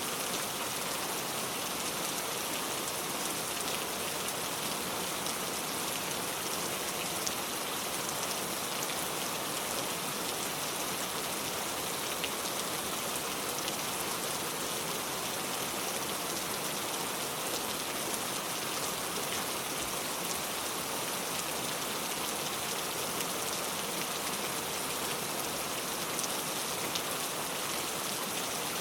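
Steady rain falling on a car, an even patter with scattered faint drop ticks.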